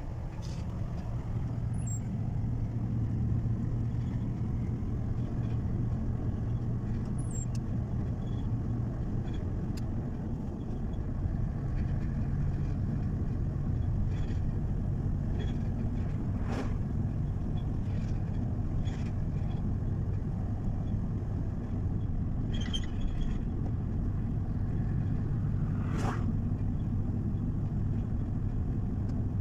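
Truck driving along at a steady cruise: a constant low engine drone under road noise, with a few sharp knocks or rattles, the clearest about halfway through and near the end.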